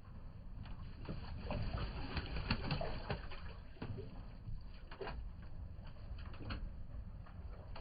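Racing pigeons cooing, with scattered light clicks and knocks.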